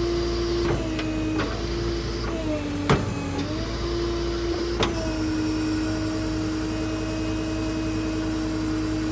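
Tow truck's V10 engine running with the power takeoff driving the wrecker's hydraulic pump: a steady whine over a low rumble, its pitch dipping briefly a few times as the wrecker controls are worked, with three sharp clicks.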